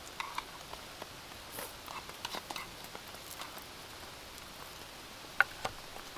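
Steady light rain with scattered, irregular drips ticking on a surface; one sharper drip about five and a half seconds in.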